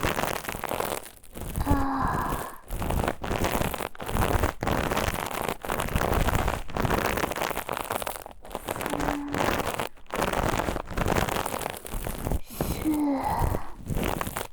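Scratching and rubbing on the ears of a KU100 binaural dummy-head microphone, in quick irregular strokes with brief pauses.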